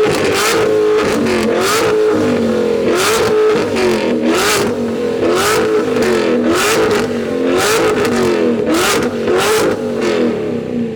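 Car engine being revved over and over, its pitch rising and falling with each blip, with short sharp bursts about once a second on top.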